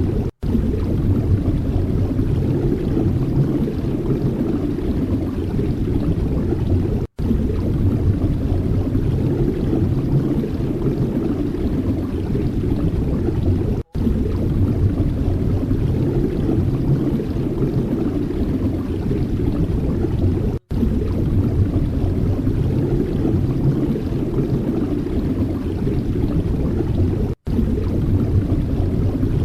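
Strong wind rumbling on the microphone: a loud, steady low roar, cut by a brief silence about every seven seconds.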